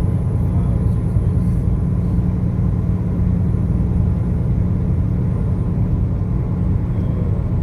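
Steady low rumble of a car driving on the highway: road and engine noise with no break.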